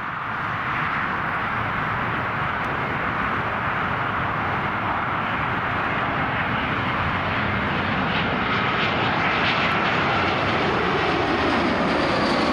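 Jet airliner engines passing close by: a steady rushing noise that grows slightly louder, with a thin whine coming in over the last few seconds and a lower tone sliding down near the end.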